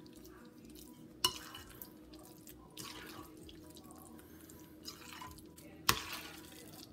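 Metal spoon stirring a thick, wet mashed potato mixture in a glass bowl: faint squelching, with the spoon clicking sharply against the glass twice, about a second in and near the end.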